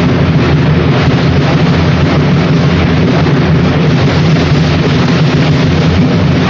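Loud, steady rumbling noise with no clear pitch and no rhythm.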